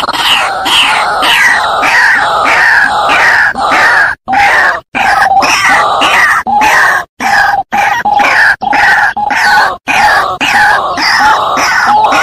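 White-breasted waterhen calling: loud, harsh notes repeating about twice a second, each one dropping in pitch, broken by a few short pauses.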